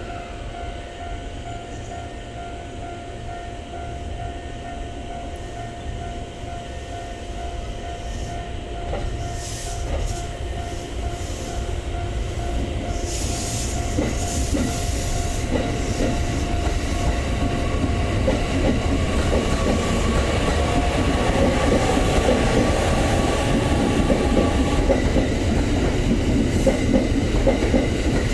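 E501 series electric multiple unit pulling away from a station platform. Its steady electric whine shifts in pitch partway through, while the rumble and clicking of wheels over the rail joints grow steadily louder as it gathers speed.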